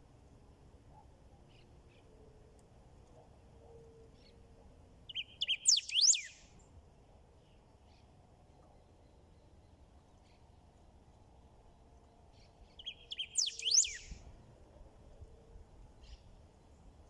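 A rey del bosque songbird singing two short, loud song phrases about seven seconds apart, each opening with a buzzy note and breaking into quick rising and falling whistles.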